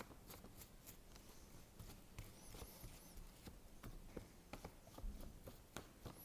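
Very faint dabbing and rustling of a glue brush being worked over a sheet of wet brown paper, heard as a run of soft clicks and taps. A couple of faint high chirps come about two and a half seconds in.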